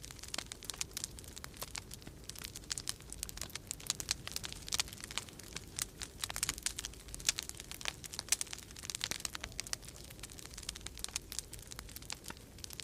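Wood fire crackling in a fireplace, a dense run of irregular sharp pops and snaps, over a steady low rumble of storm wind.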